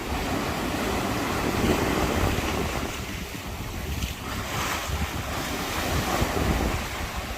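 Wind buffeting the microphone over the rush of sea water, with a swell of hissing wash about four seconds in.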